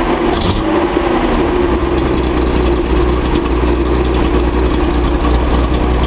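Datsun 280Z's L28 2.8-litre fuel-injected straight-six idling steadily while still warming up, running evenly with a replacement fuel injector fitted in place of the one suspected of causing a misfire.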